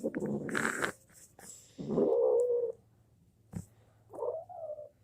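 An annoyed cat giving two drawn-out complaining calls, one about two seconds in and one near the end. It is being handled against its will. There is a short rustle at the start and a sharp click between the calls.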